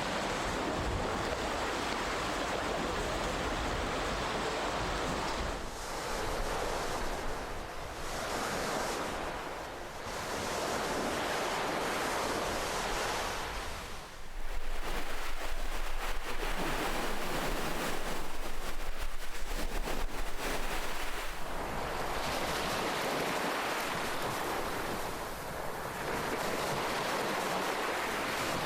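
Ocean waves breaking and washing onto the shore, a steady hiss of surf that swells and eases every few seconds, with a longer, louder surge through the middle.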